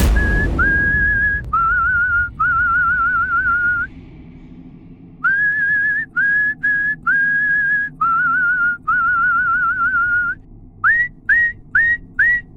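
A sudden loud crash, then a whistled tune: phrases of held notes and wavering, warbling notes, ending in a few short upward-swooping whistles.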